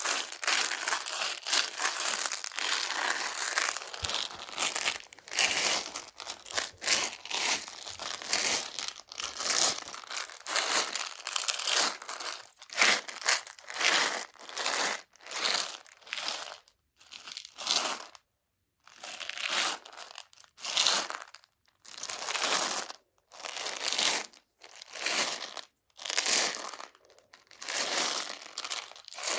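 Tiny Choco Baby chocolate candies and their packaging handled for ASMR, making a rustling, crinkling rattle. It is dense and continuous at first, then breaks into separate short swishes about once a second.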